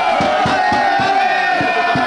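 Crowd of rally spectators cheering and shouting loudly.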